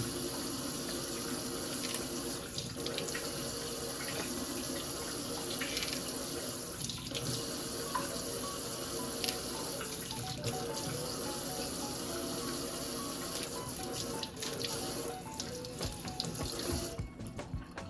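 Tap water running steadily into a sink, stopping near the end.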